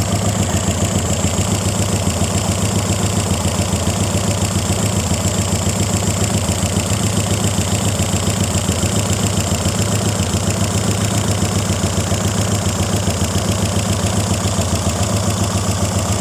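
Peugeot 106 race car's carburetted 1.4 four-cylinder engine idling steadily from cold with the choke pulled, not revved, heard close to the open engine bay. It runs with an even, fast pulse.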